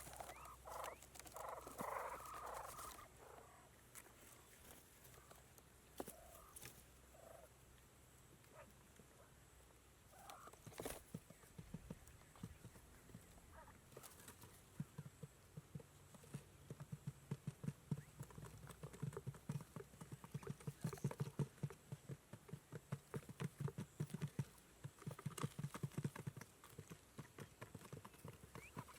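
A bird's faint calls in the first few seconds, then from about halfway a long run of soft, quick taps.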